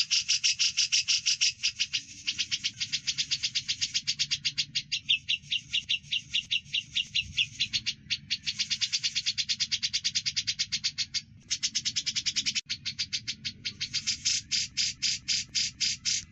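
Bird-song training recording mixing Eurasian tree sparrow (burung gereja) and grey-cheeked bulbul (cucak jenggot) calls. It is a continuous stream of rapid, sharp chirps, about ten a second, broken by a few short pauses.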